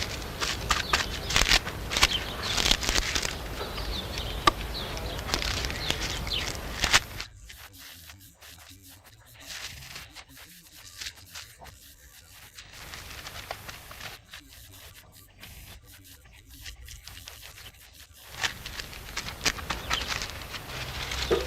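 Rough scraping and rubbing of render being worked onto a wall by hand, busy at first, then much quieter and patchy for about eleven seconds, then busy again near the end.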